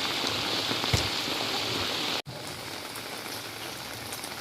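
Steady rain falling, a dense even hiss. A little past halfway the sound cuts abruptly and continues as quieter rain.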